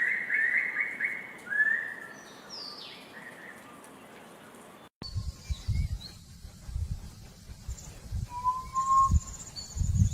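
Forest quail calling: a fast run of short rising whistled notes that stops about a second and a half in. After an abrupt cut there are low thuds and a single short whistle.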